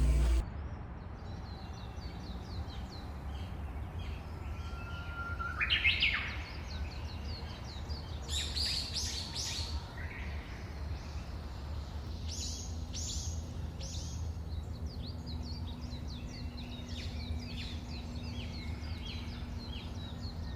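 Several songbirds chirping and singing, with many quick chirps throughout, a rising whistled note about five seconds in, and louder bursts of song later on. A steady low rumble runs underneath.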